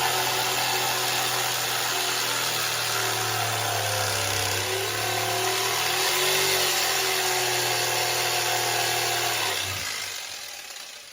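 Electric jigsaw cutting through a wooden board, its motor hum wavering in pitch as the load changes, then released and winding down near the end.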